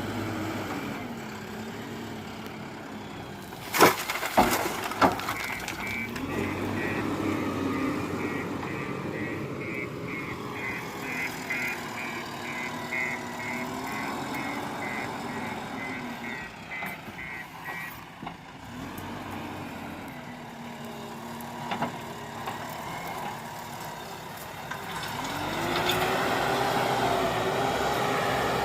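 Diesel engine of a JCB 4DX backhoe loader loading gravel, revving up and down repeatedly. Loud clanks and crashes come about four seconds in, and a reversing alarm beeps rapidly for about seven seconds in the middle. The engine revs up again near the end.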